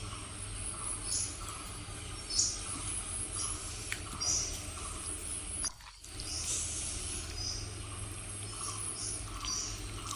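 Outdoor rural ambience: a steady high insect drone with short high chirps about once a second, over a low steady hum. The sound drops out briefly about six seconds in.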